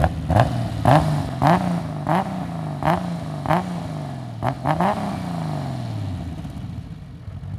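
Turbocharged BMW S38 straight-six being blipped in quick succession, about eight short revs each rising sharply and falling back, with a sharp burst of noise at each lift-off. A last rev falls slowly back to idle about six seconds in.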